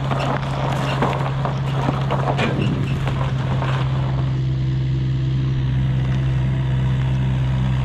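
An engine running at a steady speed, with knocks and clatter over it for the first three to four seconds, then only the steady engine.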